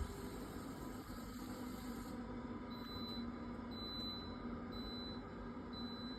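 Steady low hum of workshop background noise. From a little under halfway in, a faint short high electronic beep repeats about once a second.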